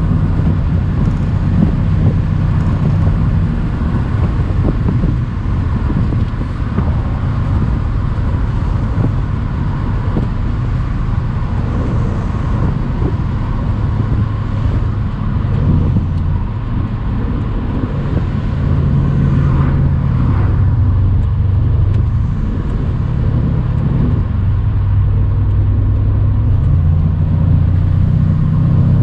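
Mercedes-AMG C63's twin-turbo V8 running steadily while the car cruises, its low note shifting in pitch a few times, heard from the open-top cabriolet along with road noise.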